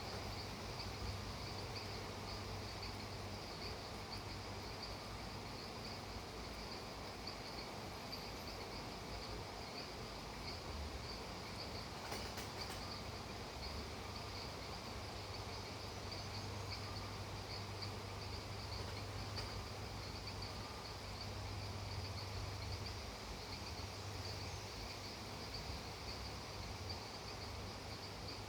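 A steady chorus of crickets or similar night insects, a continuous fast pulsing chirr, over a soft, even hiss of rain and a low steady hum.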